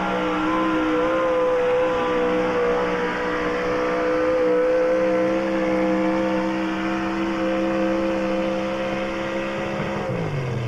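Gas-engined pulling truck running at high revs, its engine note held steady through the pull, then falling sharply as the throttle is let off near the end.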